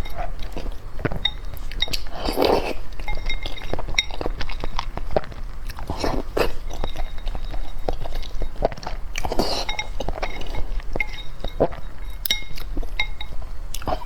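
Close-miked eating of seafood: chewing and crunching with many sharp clicks and short, light clinks, and a louder, fuller mouthful about every three to four seconds.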